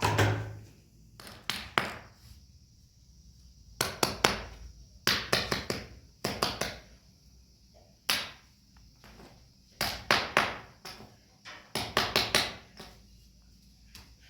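Repeated sharp knocks, struck in quick groups of two to five with short pauses between.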